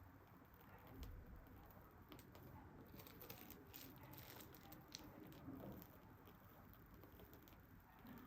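Near silence with faint scattered small clicks and light taps of cake-decorating handling, most of them in the first half.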